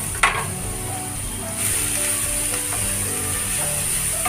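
Shredded cabbage sizzling in hot oil in a nonstick frying pan and being stirred with a wooden spatula; the sizzle grows louder about a second and a half in. A single sharp knock comes just after the start.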